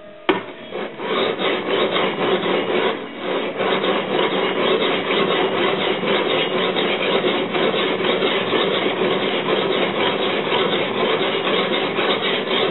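Steel sword blade being ground flat by hand against an abrasive, steady repeated scraping strokes, starting with a knock just after the start.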